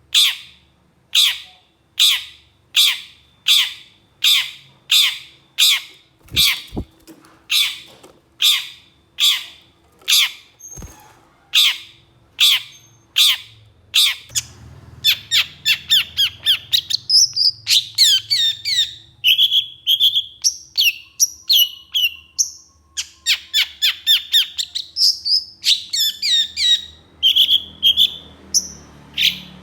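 Long-tailed shrike (cendet) giving harsh, rough calls repeated about one and a half times a second, then, about halfway through, breaking into fast, varied chattering song with quick notes and short whistled phrases.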